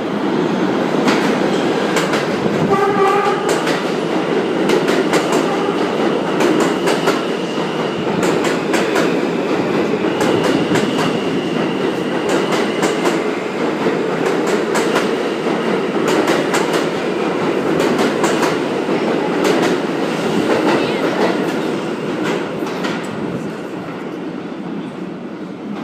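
New York City subway F train running through a station: a steady rumble of wheels on rail, broken by many sharp clicks from the rail joints. A short pitched tone sounds about three seconds in, and the noise trails off near the end.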